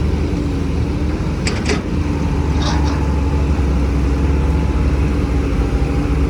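Heavy diesel earthmoving machinery running steadily with a low rumble and a held hum, with a few short high-pitched squeaks about one and a half to three seconds in.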